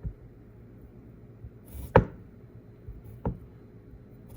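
A few sharp knocks from hard parts being handled as a broken jigsaw is taken apart: one at the start, the loudest about two seconds in, and another near three seconds.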